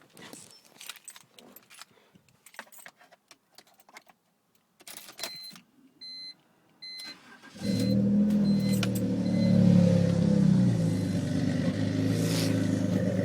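Keys rattling and small clicks, then a run of short electronic beeps, and about seven and a half seconds in the BMW E46 325Ci's inline-six catches and runs at a loud cold-start idle through its cammed, custom headers-back exhaust, swelling briefly a couple of seconds after it fires.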